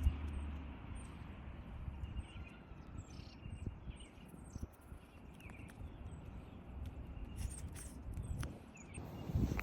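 Small birds chirping: short, high calls, one every second or so, over a low rumble, with a low bump near the end.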